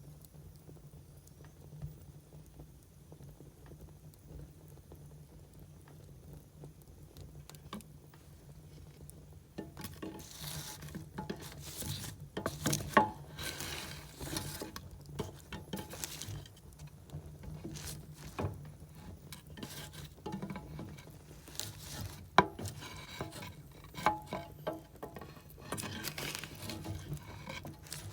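Burning firewood crackling and hissing: only sparse faint clicks for the first ten seconds or so, then busy crackling with sharp pops, the loudest about halfway through and about three-quarters through. A steady low hum lies underneath.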